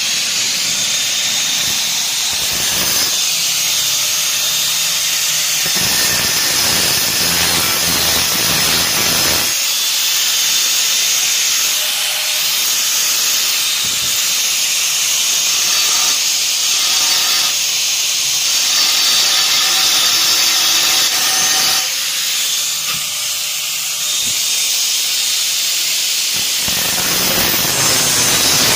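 Welding to join two chainsaw guide-bar plates: a loud, steady hiss that carries on without a break, changing slightly in tone a few times.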